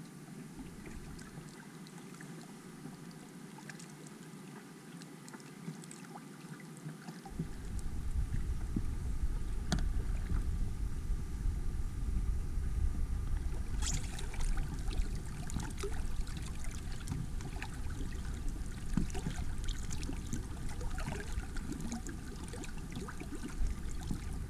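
Water lapping and trickling against the hull of a small inflatable sailing boat under way, with scattered small splashes. A low wind rumble on the microphone comes in about seven seconds in and carries on.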